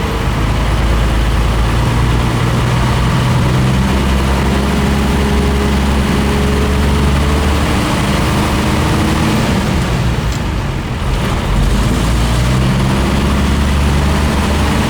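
Military deuce-and-a-half truck's engine running steadily at low speed. Its note dips briefly a little over ten seconds in, then picks up again.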